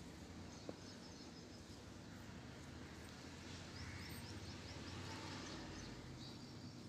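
Faint outdoor background with a small bird giving a quick run of high chirps about halfway through. A single short sharp click comes under a second in.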